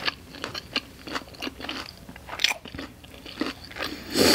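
Close-up chewing and crunching of crispy panko-breaded chicken katsu, a rapid run of small crackles, with a louder crunch about two and a half seconds in and the loudest near the end.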